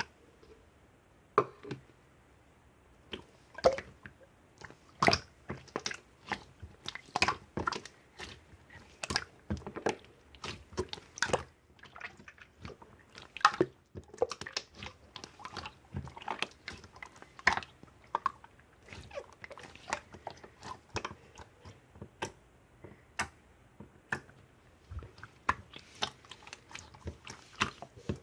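Crunchy chewing: irregular sharp crunches coming in quick runs with short pauses between.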